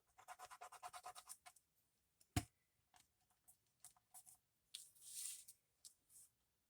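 Faint ticking and scratching of glue being applied under paper: a quick run of small ticks for about a second and a half, one sharp click a little later, then scattered ticks and a brief rustle.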